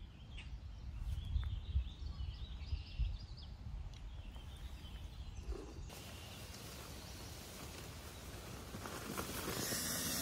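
Outdoor ambience: low wind rumble on the microphone with faint bird calls, then from about six seconds in an even rushing hiss that grows louder near the end.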